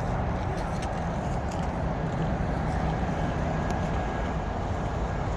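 Steady low rumble and hum of a passenger train in motion, running evenly with no distinct beats.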